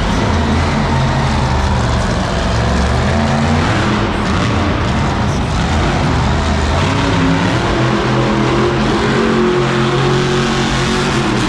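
Monster truck engines running loud and revving, their pitch rising and falling.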